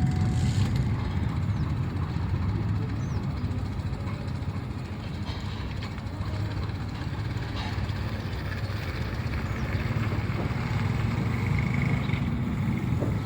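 Steady low rumble of an airliner's jet engines, with a faint high whine rising out of it near the end.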